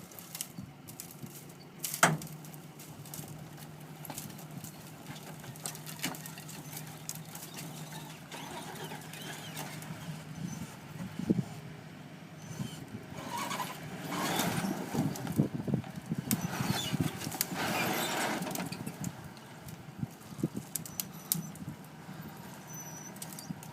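Vehicle engine running steadily during a tow, with one sharp knock about two seconds in and a louder, noisier stretch in the middle.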